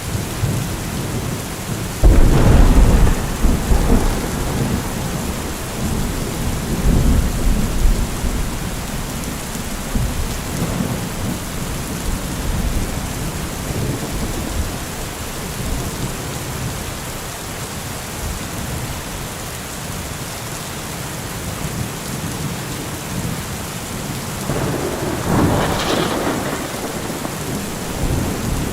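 Heavy rain falling steadily. About two seconds in, a sudden loud low rumble breaks in and rolls on for several seconds, and a second, shorter rumble comes near the end.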